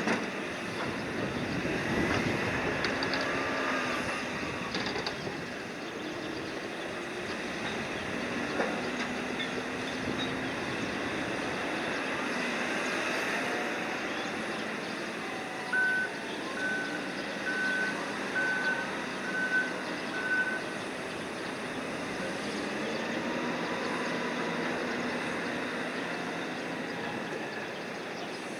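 Cargo-crane unloading machinery running steadily, with whines that rise and fall in pitch as it works. Near the middle, a warning beeper sounds six short times, about once a second.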